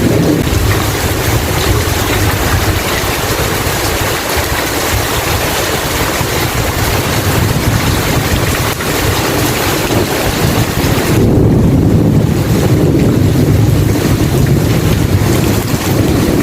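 Steady heavy rain with a deep low rumble of thunder swelling about two-thirds of the way through.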